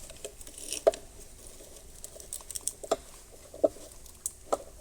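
A few sharp, separate light metal clicks and knocks, about four in all, from a piston in its ring compressor being handled and set into an engine cylinder.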